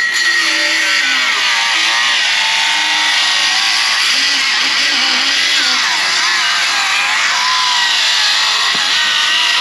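Milwaukee M12 cordless circular saw ripping a deck board lengthwise, its motor whine dipping and recovering in pitch again and again as the blade loads up and binds. The owner believes the blade is dull.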